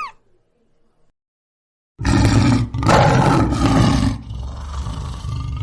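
An animal roaring: two long, loud roars starting about two seconds in, then a fainter rumbling roar that carries on.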